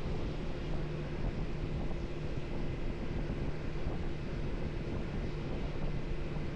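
Motorcycle engine running at a steady speed, with a constant engine hum under wind rushing over the microphone.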